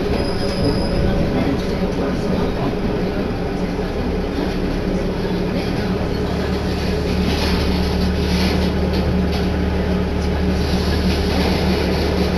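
Inside a Tenryū Hamanako Railroad diesel railcar on the move: a steady engine drone mixed with wheel and track noise. A deeper rumble comes in about halfway through.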